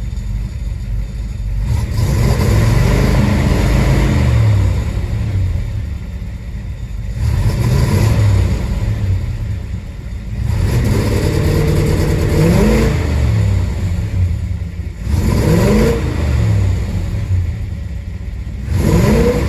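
Chevelle SS 396 big-block V8 revved several times from idle, each blip rising and falling back. The engine has a misfire and hesitation that the owner says began after a dead battery.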